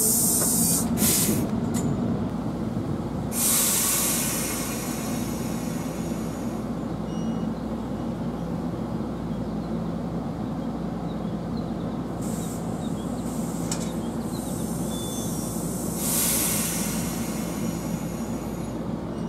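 NJ Transit multilevel commuter train at a station: a steady low rumble and hum, with several bursts of high hissing that come and go.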